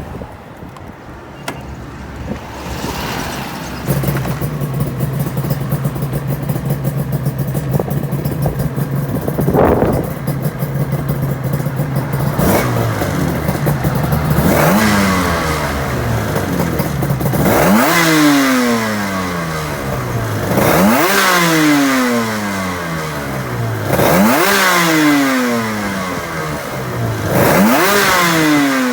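Yamaha RZ350 two-stroke parallel-twin engine in an RZ250 motorcycle, starting about four seconds in and idling steadily. It is revved once near the middle, then blipped repeatedly, about every three seconds, each rev rising sharply and falling back to idle.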